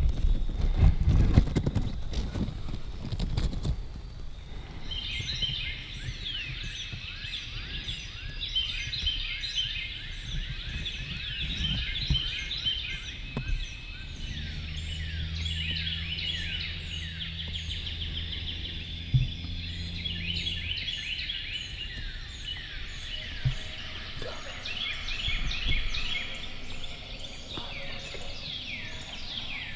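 Several songbirds singing in repeated bursts of chirps and falling whistled notes, after a few seconds of loud rustling at the start. A low steady hum runs for several seconds in the middle.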